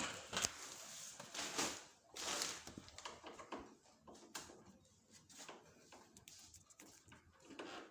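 Irregular clicks and knocks of split-type air-conditioner parts being handled and set down, with a hissing noise in the first couple of seconds.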